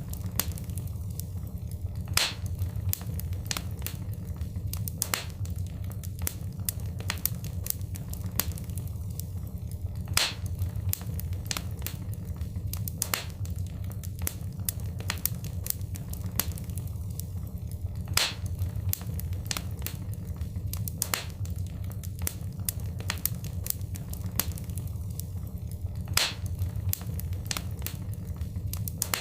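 Crackling wood fire in a fireplace: a steady low rumble of flames under frequent sharp pops and snaps. One louder pop returns every eight seconds, as the same short recording loops.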